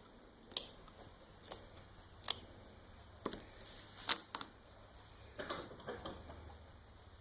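Scissors snipping through cloth, about ten short, sharp snips at uneven intervals, some coming close together.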